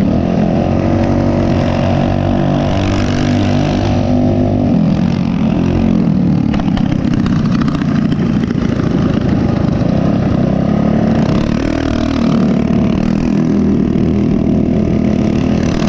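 Small single-cylinder four-stroke mini bike engine running while riding, its pitch rising and falling with the throttle.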